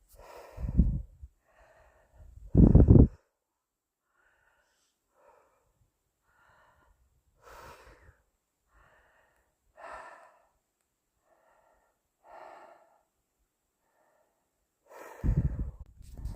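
A person breathing hard, with short puffs a little over a second apart. Loud low thuds come twice near the start and once near the end.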